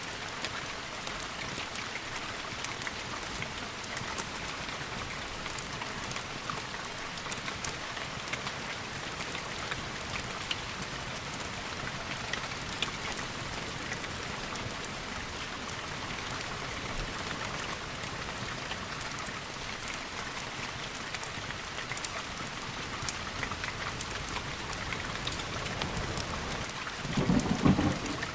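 Steady rain with many scattered sharp drops. A low rumble of thunder comes in near the end.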